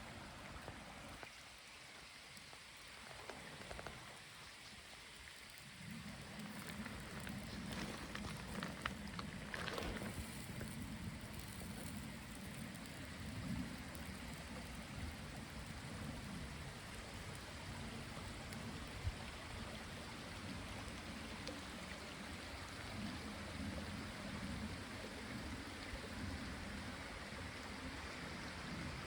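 Steady water noise that grows fuller and deeper about six seconds in, with a few faint clicks around nine to ten seconds in.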